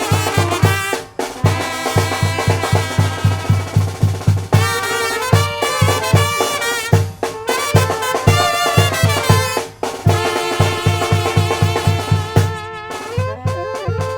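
Zacatecan tamborazo band music: trumpets and other brass playing the melody over a bass drum beating about four times a second.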